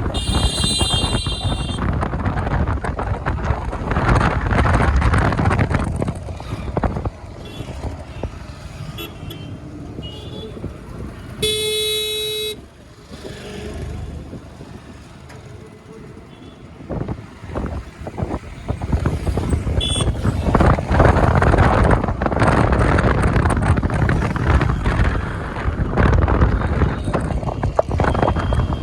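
Wind buffeting the microphone of a moving electric scooter in road traffic, heavier at the start and over the last third. A vehicle horn honks once for about a second near the middle, and short high beeps sound at the start and about two-thirds through.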